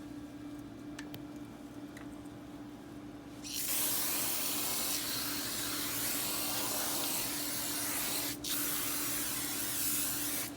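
Insecticide spray hissing in one long burst that starts a few seconds in, pauses briefly about eight seconds in, then carries on until it stops near the end.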